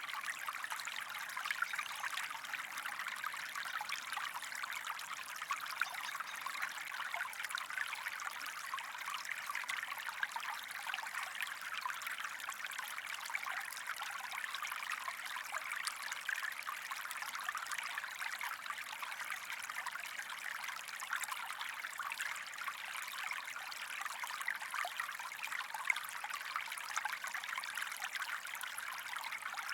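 Small stream of water running and trickling steadily over rocks, a continuous burbling rush with fine splashing.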